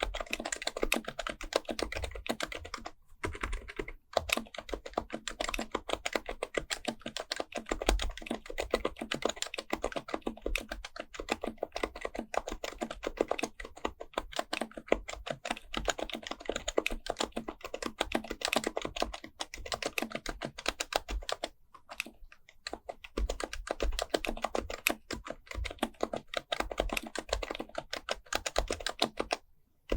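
Continuous fast typing on an HHKB Pro Type-S keyboard with Topre electrostatic capacitive switches, a dense run of soft key clacks with brief pauses around 3 and 4 seconds in, about 22 seconds in, and just before the end.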